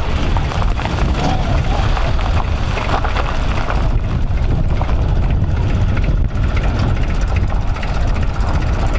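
Tractor engines running with a steady low rumble.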